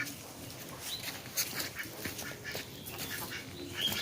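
Poultry calling: scattered short calls, with a high peep about a second in and another near the end.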